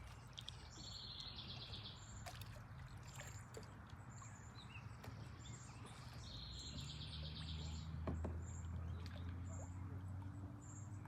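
Outdoor ambience with birdsong: a rapid trill heard twice, each about a second and a half long, over short high chirps repeating roughly every second. A low steady hum comes up about seven seconds in.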